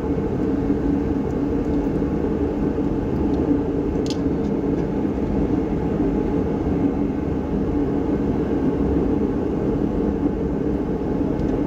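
Steady mechanical drone, like a running fan or motor, holding an even pitch throughout, with a single light click about four seconds in.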